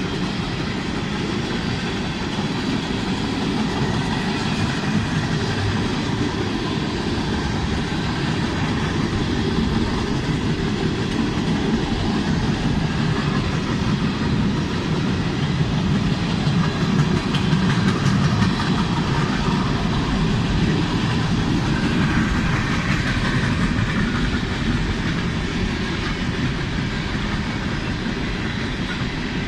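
Freight train cars rolling past: steel wheels running steadily on the rails.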